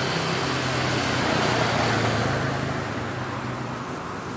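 Road traffic noise: a motor vehicle's engine hum and road noise, easing off and getting quieter near the end.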